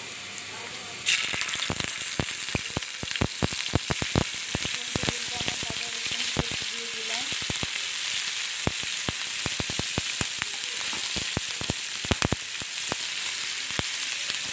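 Sliced onions frying in hot mustard oil in a wok, a steady sizzle with frequent sharp crackles and pops. The sizzle jumps suddenly louder about a second in.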